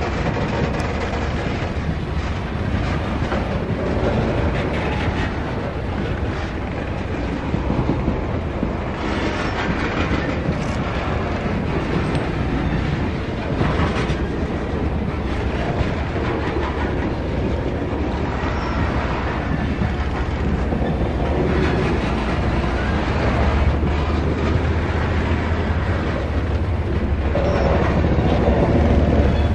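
BNSF freight train cars rolling past, a steady continuous rumble of wheels on rail, growing slightly louder near the end.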